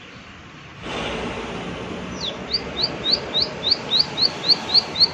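Plain prinia (prenjak sawah) singing: from about two seconds in, a fast, even series of short rising notes, about three to four a second, growing louder over steady outdoor hiss that comes up abruptly about a second in.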